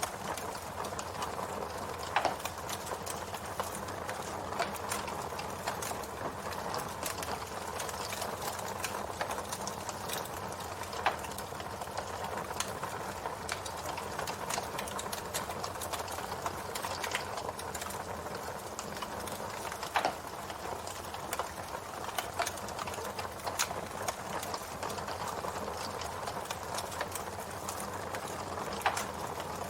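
Campfire burning with a steady crackle of fine snaps and a handful of louder wood pops scattered through.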